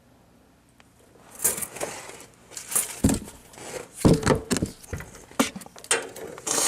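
Irregular rustling, scraping and clicking of hands at work fastening a car's exhaust pipe in place. It starts about a second and a half in and comes in uneven bursts.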